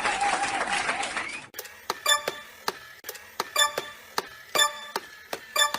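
Repeated sharp taps that ring with a clear pitch, like something hard striking glass or metal, coming a few times a second, often in quick pairs, starting about a second and a half in.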